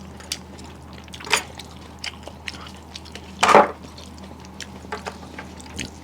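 Close-up eating sounds of rice and fish curry: small wet clicks and squishes, with two louder wet slurping sounds about a second in and past the middle.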